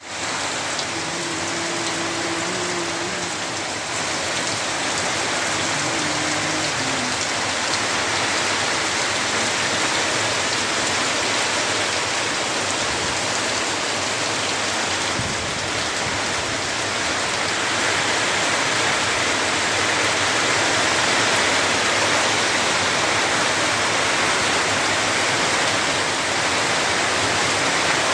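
Heavy rain pouring down steadily, a dense, even rushing noise that grows slightly louder in the second half.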